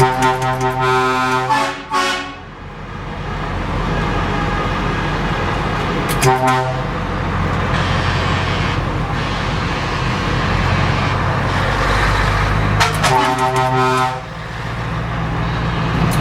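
Truck air horn sounding in blasts: a long one at the start whose pitch sags as it ends, a short one about six seconds in, another about 13 seconds in, and a fourth starting at the very end. Under the blasts a truck's diesel engine runs steadily.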